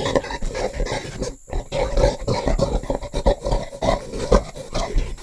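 A gorilla making a quick run of short, rough sounds, broken by a brief pause about a second and a half in.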